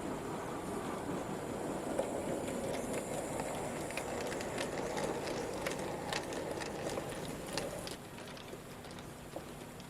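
N gauge model train running on the track: a steady motor-and-wheel rumble with irregular sharp clicks of the wheels over the track. It quietens a little about eight seconds in.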